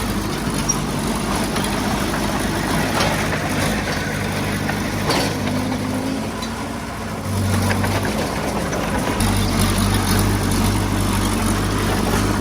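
Heavy-equipment diesel engine running steadily at the work site. It eases off briefly, picks up again about seven and a half seconds in, and settles into a deeper, louder note from about nine seconds on.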